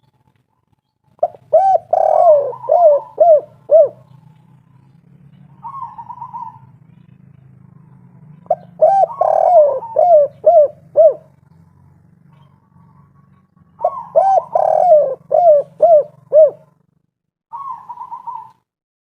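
Spotted dove (tekukur) singing its 'kuk 3' song: three cooing phrases of about five to six quick notes each, with a short higher purring note between phrases.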